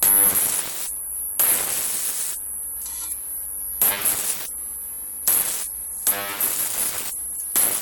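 High-voltage arcs from a large flyback transformer driven by a MOSFET ZVS driver: repeated hissing, buzzing arc bursts of up to about a second each. A steady high-pitched whine runs between them.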